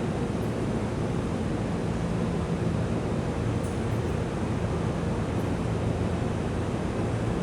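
Freight train hauled by an EH500 electric locomotive running past with a steady rumble and faint low hum.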